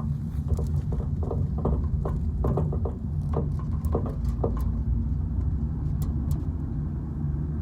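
Steady low road and engine rumble of a car heard from inside the cabin while driving, with a scatter of short light taps or clicks during the first half.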